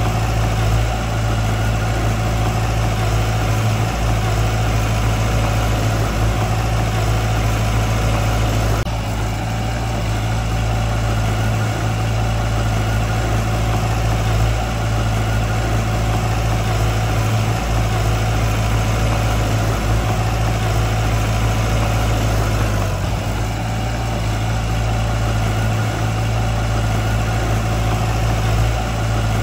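Diesel engine of heavy earthmoving equipment running steadily with a deep, even hum, apparently edited, with slight changes in the sound about nine seconds in and again around twenty-three seconds.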